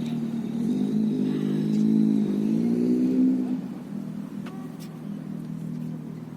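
BMW X5 M Competition's 4.4-litre V8 engine running. About a second in, it climbs steadily in pitch and loudness for roughly three seconds, then drops off suddenly to a lower, quieter steady note.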